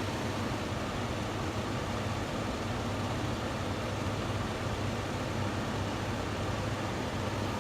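Late-1980s Amana Cool Zone 6500 BTU room air conditioner running on cooling: steady fan air rush over a constant low hum from its Tecumseh rotary compressor.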